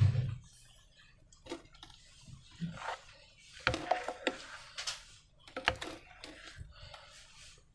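Clear slime being squished and handled, making a run of irregular wet clicks and crackles, with a low thump right at the start.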